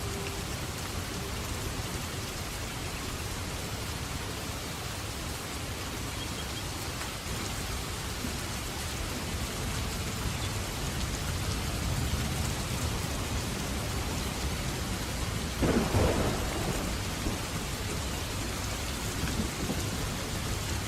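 Steady rain falling with a low rumble of thunder. A sharp thunderclap breaks out about three-quarters of the way through and is the loudest moment.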